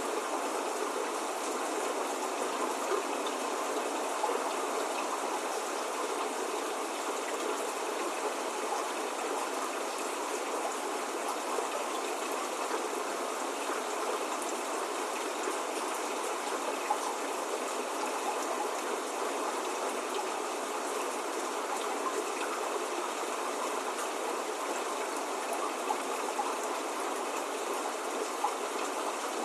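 Steady spring rain falling, an even hiss with faint scattered drop ticks, no thunder or birdsong.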